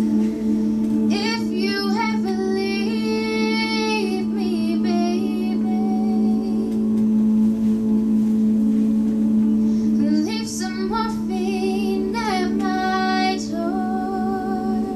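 A cappella group singing a wordless intro: the voices hold a steady low chord throughout, while a higher voice sings two short melodic phrases, one about a second in and another about ten seconds in.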